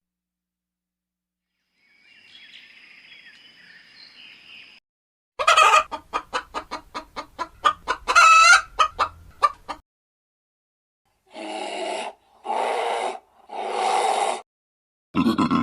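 A chicken clucking in a fast run of short calls, about three a second, with one louder drawn-out cackle partway through. This is followed by three separate harsh, noisy calls.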